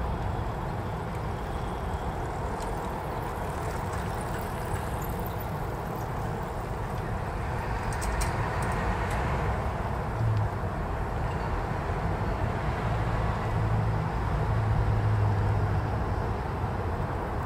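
Train carrying a railway crane vehicle rolling slowly away over the station tracks: a steady rumble of wheels on rail, with a few faint clicks about eight seconds in and a low hum in the second half.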